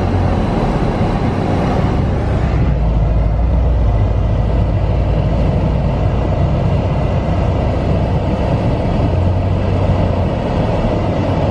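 A car running as it drives off: a steady low engine rumble with road and tyre hiss over it.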